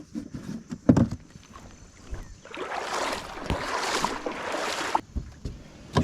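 Handling noise on a kayak: a sharp knock about a second in, then a steady rushing hiss for about two and a half seconds, with more knocks near the end.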